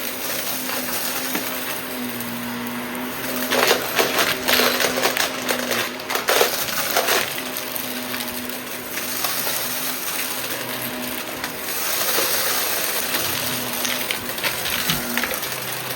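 Shark vacuum cleaner running with a steady hum, with loud crackling and rattling from about four to seven seconds in, and again briefly near the end, as small debris is sucked up.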